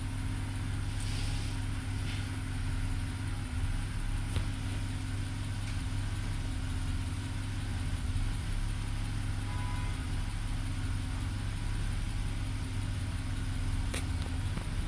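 2010 BMW 328i's N51 straight-six idling steadily, with a couple of faint clicks. The engine has a very small random misfire.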